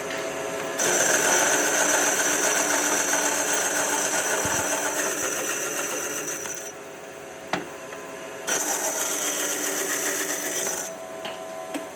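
A power tool working wood, running in two spells of about six and two seconds with a short pause between, a sharp click in the gap.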